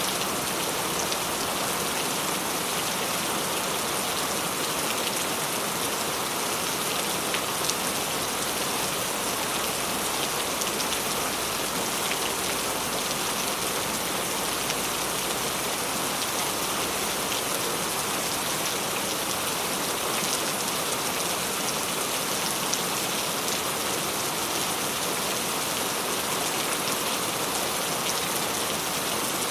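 Steady tropical rain falling on surfaces, a dense even patter of drops.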